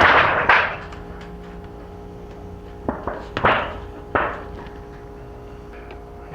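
Hand work on the materials for a bird-feeder squirrel guard: a clatter at the start, then three sharp knocks about three, three and a half and four seconds in, over a faint steady hum.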